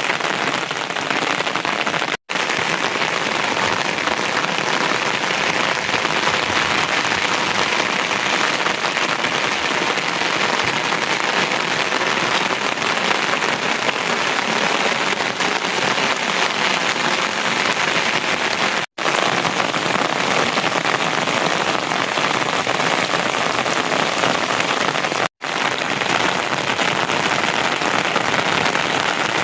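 Steady, heavy rain falling, an even hiss without letup. It cuts out completely for a split second three times: about two seconds in, a little after halfway, and again near the end.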